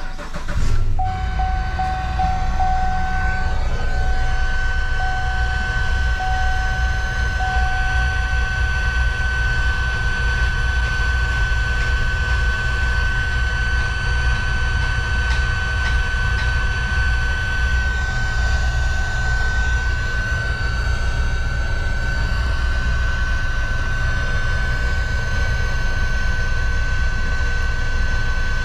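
A 2016 Cadillac Escalade ESV's 6.2-litre V8 catches just after a start and then idles steadily. A steady high-pitched tone sits above the idle, and an interrupted chime sounds during the first several seconds.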